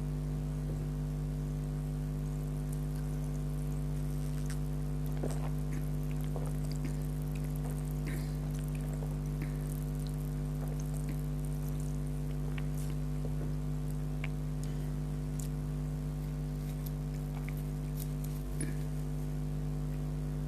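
A steady low electrical hum with faint, scattered small clicks and crackles.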